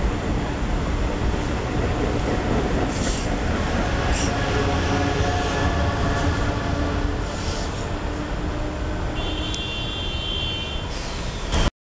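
Amtrak Acela Express trainset passing at speed on the electrified line: a steady, loud rush of wheels on rail and air noise as the cars go by. A thin high tone rises out of it near the end, and the sound cuts off suddenly just before the end.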